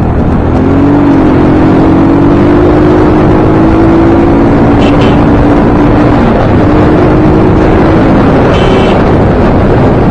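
Bajaj Pulsar NS200 single-cylinder engine running at a steady cruise, heard under heavy wind rush on the microphone; the engine note dips briefly about six seconds in.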